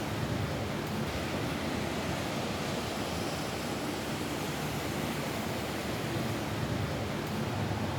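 Steady rain falling on a roof: an even, unbroken hiss.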